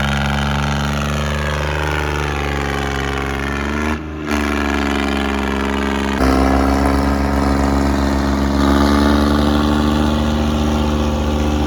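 Tractor diesel engine running steadily, its pitch sagging slightly, then briefly dropping away about four seconds in; from about six seconds it runs louder with a more pulsing beat.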